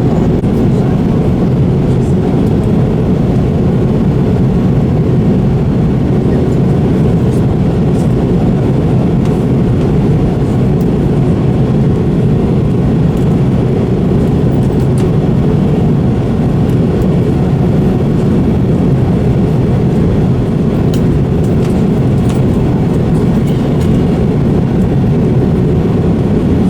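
Steady drone of jet engines and rushing air heard inside an airliner cabin, strongest in the low range and unchanging throughout.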